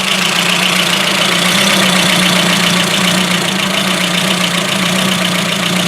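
Ford Focus Mk1 petrol engine idling steadily with a misfire.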